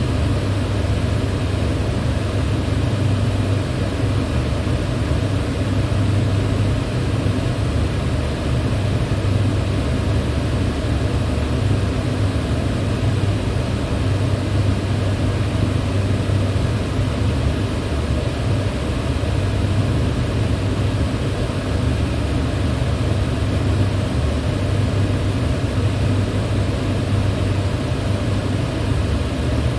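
Electric fan running steadily: an even rush of air with a low hum underneath.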